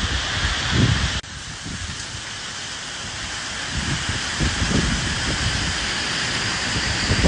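Steady rain falling, with low rumbles of wind gusts underneath. About a second in, the sound drops suddenly to a quieter level, then slowly builds back up.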